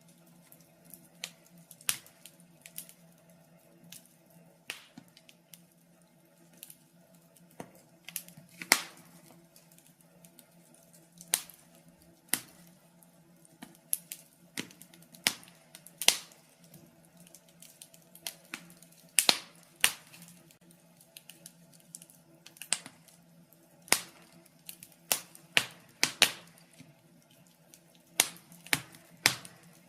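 Wood fire in a fireplace crackling, with irregular sharp pops and snaps of burning wood, over a faint steady low hum.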